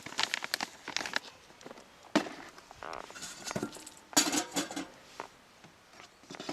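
Irregular knocks, clinks and rustles of objects being handled, with a louder cluster of clatters a little past the middle.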